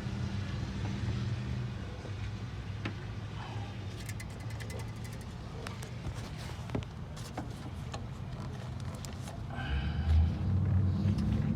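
Hand tools clicking and rattling while the number 5 spark plug and its ignition coil are taken out, with a quick run of clicks about four seconds in. A steady low hum runs under it.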